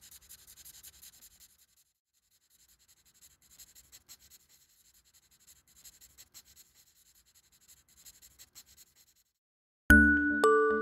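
Faint scratching of a drawing tool on paper in short, repeated strokes. About ten seconds in, bright chiming music with glockenspiel-like notes starts suddenly.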